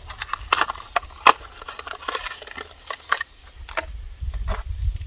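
Irregular sharp clicks and crackles of newly bought ignition switches being handled, with a low rumble rising about four seconds in.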